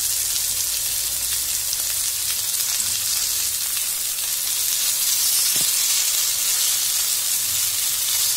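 Spice-marinated prawns and curry leaves sizzling steadily as they shallow-fry in a little oil on a dosa griddle.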